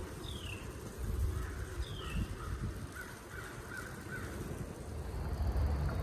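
Birds calling beside the trail: a high whistled note that falls in pitch, twice, then a quick run of about six short lower calls a few seconds in. Under them is a low rumble of wind on the microphone of a moving bicycle.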